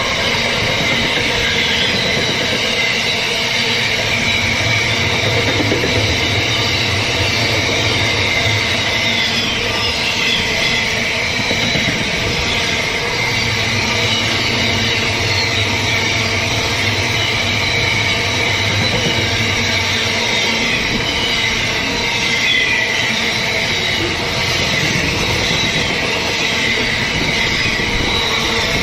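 A Qube freight train rolling past, with a steady rumble of wheels on rail and a continuous high wheel squeal.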